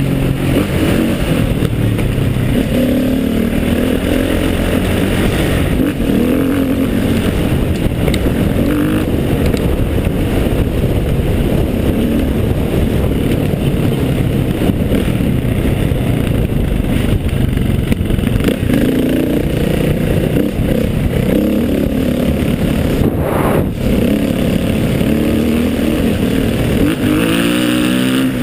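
Trail motorcycle engine pulling up a steep climb, its pitch rising and falling with the throttle, with a brief drop about 23 seconds in and a rising rev near the end.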